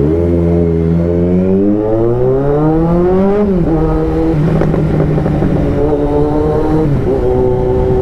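Kawasaki Z900's inline-four engine pulling away under acceleration: the pitch climbs for about three and a half seconds, drops sharply at a gear change, then holds fairly steady, with another shift about a second before the end.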